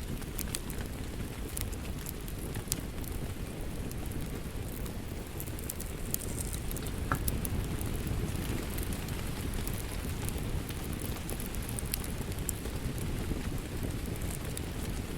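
Fireplace wood fire crackling: a steady low rush of flame with scattered sharp pops and snaps.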